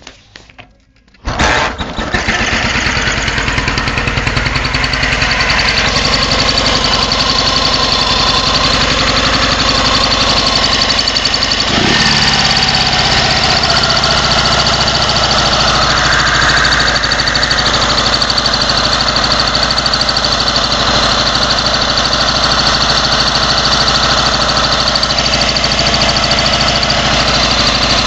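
Cold boxer-twin motorcycle engine started about a second in and then running steadily, with a high whistle from inside the engine that shows before it has warmed up.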